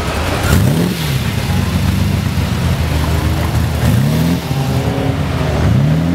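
Lamborghini supercar engine running at low speed, blipped three times; each rev rises quickly in pitch and falls back to a steady low burble.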